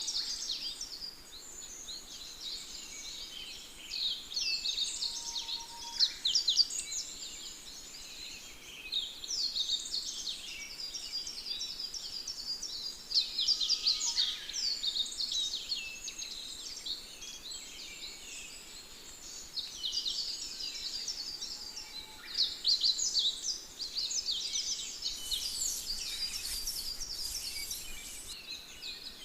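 A dense chorus of small songbirds chirping and trilling without a break. A brief hiss comes in for a few seconds near the end.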